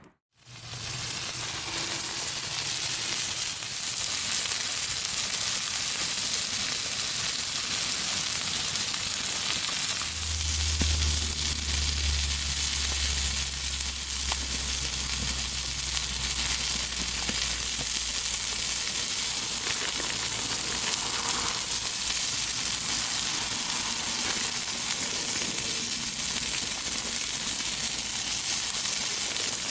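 A steady sizzling hiss, with a low hum joining about ten seconds in and fading some eight seconds later.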